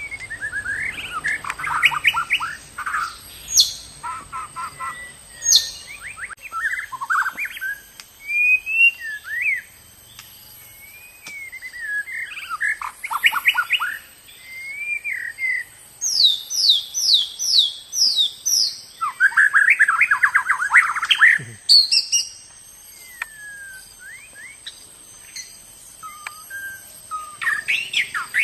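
Murai (Copsychus songbird) singing a varied song of clear gliding whistles and rapid rattling note series, phrase after phrase with short pauses between, as used to lure murai.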